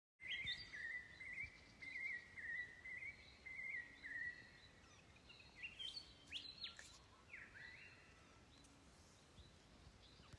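Birds calling: a run of short warbled phrases repeated about once a second for the first four seconds, then a few scattered chirps with quick rising and falling notes, over faint outdoor hiss.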